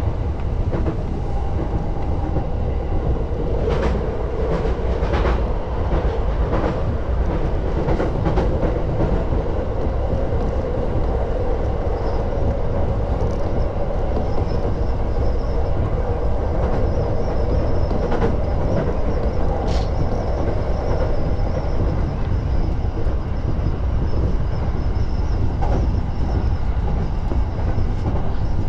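Electric commuter train running on the track: a steady low rumble, with a quick run of clicks from the wheels crossing rail joints a few seconds in and a couple more later. A faint high whine runs through the second half.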